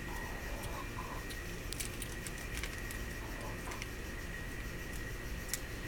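Plastic candy bag of gummies being handled: scattered light crackles and clicks, over a steady low background rumble and a faint steady high hum.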